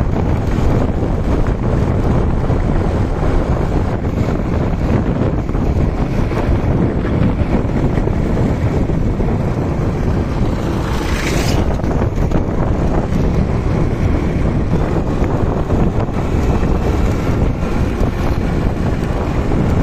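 Motorcycle engine running under way, with heavy wind noise on the microphone; a brief rising hiss about halfway through.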